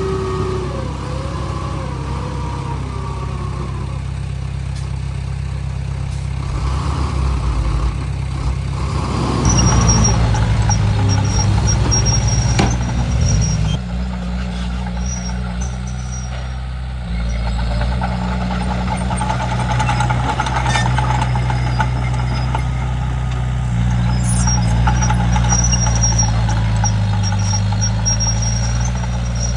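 Komatsu D31P bulldozer's diesel engine running under changing load, its pitch and level shifting several times, with a few clanks and short high squeaks from the machine.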